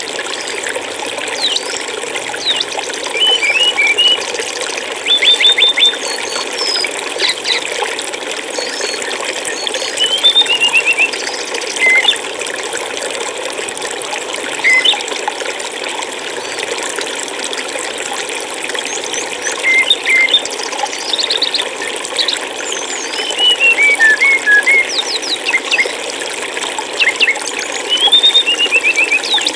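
Steady rush of flowing stream water, with small songbirds calling over it: short chirps, quick trills and rapid runs of high notes coming every second or two.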